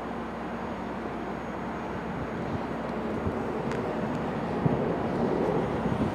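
Steady vehicle rumble that slowly grows louder, with a few light clicks.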